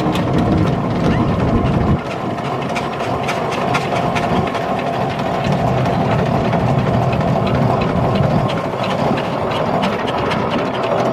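Steam traction engine on the move: steady mechanical running with a rapid clatter of ticks and knocks from its motion over a low rumble. The rumble drops suddenly about two seconds in.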